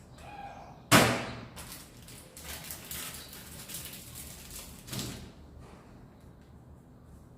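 A sharp knock about a second in, then a few seconds of handling noise and a softer thump near five seconds: kitchen things being set down and moved about.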